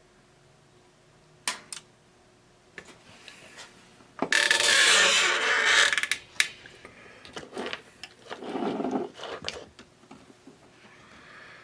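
Handling noises from small parts and tools being worked on a bench. A couple of sharp clicks come first, then a loud, noisy rattle lasting about two seconds, then more clicks and a softer rattle.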